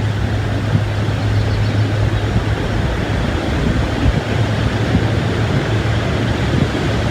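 Wind rushing steadily over the microphone, with a constant low hum underneath.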